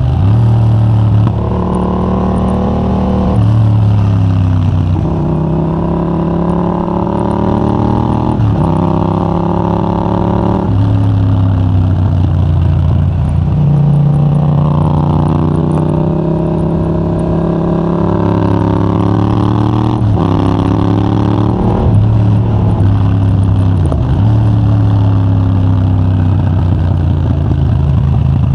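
Yamaha MT-07's 689 cc parallel-twin engine through a de-catted Mivv GP Pro titanium exhaust with a 35 mm dB killer, ridden hard. It is loud, and its pitch climbs under acceleration, then drops sharply with gear changes and off-throttle, again and again.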